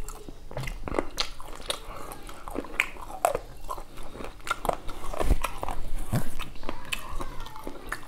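Close-miked wet chewing and lip smacking of a person eating beef curry and rice, with many short mouth clicks and smacks, loudest about five to six seconds in.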